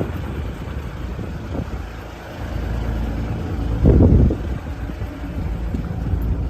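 Truck engine idling, a steady low rumble, with a brief louder surge about four seconds in.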